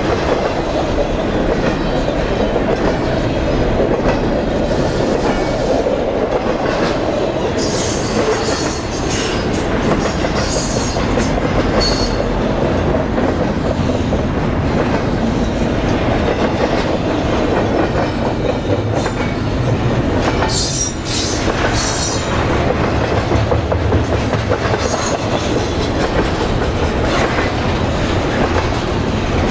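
Double-stack container train's well cars rolling past close by: a steady rumble and clatter of steel wheels on the rails, with brief high-pitched bursts about 8 and 21 seconds in.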